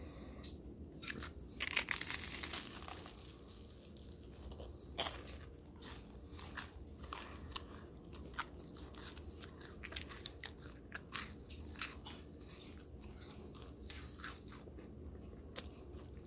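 A person biting into a toasted grilled cheese sandwich and chewing it close to the microphone. The loudest crunching of the crust comes about two seconds in, a sharp crack about five seconds in, then irregular crunches as the chewing goes on.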